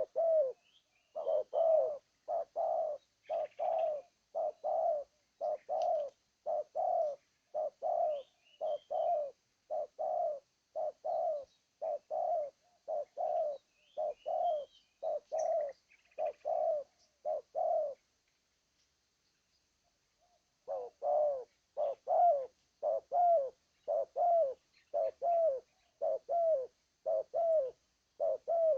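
Spotted dove (terkukur) cooing: a long run of short, repeated coo notes, pausing for a couple of seconds about 18 seconds in and then carrying on. Faint chirps of small birds sound above it in the first half.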